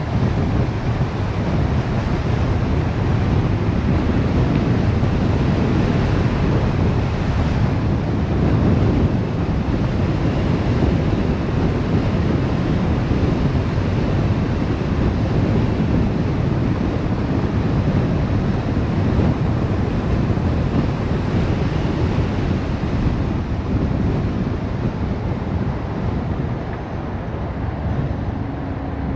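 A car driving along: steady road and wind noise, a low rumble with no break.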